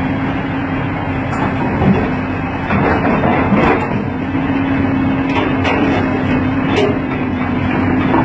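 Excavator's diesel engine running steadily, with a few short knocks during the work of refitting its loose track.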